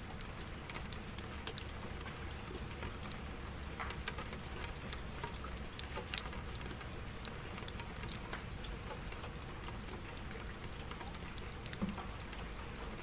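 Steady rain falling on a surface, with scattered individual drops ticking; one sharper drop stands out about six seconds in.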